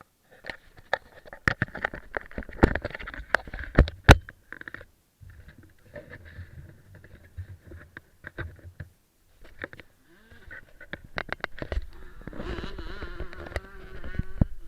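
A pit bike's small engine buzzing and revving, with many sharp knocks and bumps, loudest in the first few seconds. The engine sound drops out briefly twice and rises in pitch shortly before a steadier stretch near the end.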